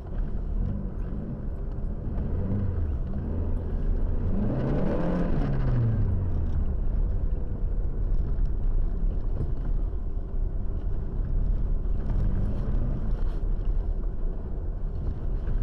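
A car running with steady road noise. The engine note rises to a peak about five seconds in and falls off again, then rises and falls more briefly near the end.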